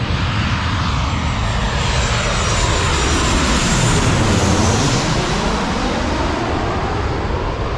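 An airliner flying low overhead, its engine noise swelling to its loudest about four seconds in. A whine in the noise falls in pitch as the aircraft passes.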